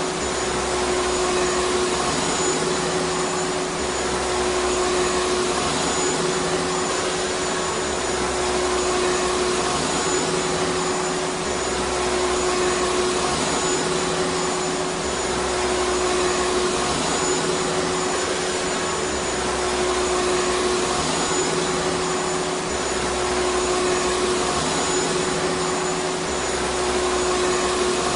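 Vacuum cleaner running steadily: a continuous rushing noise with a steady motor whine.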